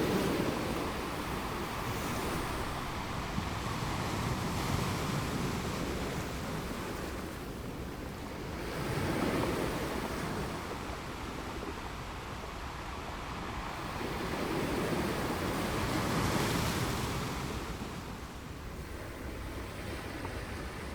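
Ocean waves breaking and washing up on a beach, swelling and ebbing every few seconds, with some wind on the microphone.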